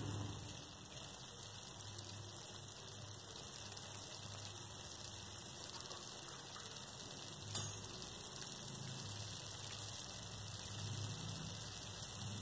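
Onion masala in ghee simmering and sizzling in a kadai: a steady, even crackling hiss, with a single click about seven and a half seconds in.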